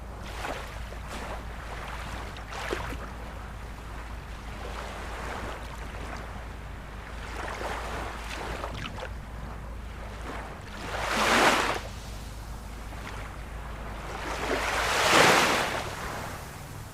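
Ocean surf washing steadily over a low rumble. Two louder waves swell and break, about eleven seconds in and again around fifteen seconds.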